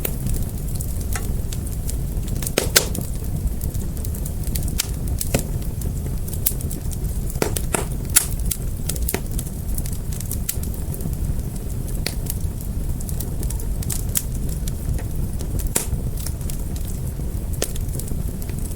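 Wood fire burning, a steady low rumble with irregular sharp crackles and pops, a few louder snaps among them.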